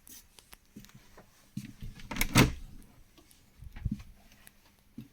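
A door inside a motorhome being opened, with a series of knocks and clicks, the loudest about two seconds in and another near four seconds.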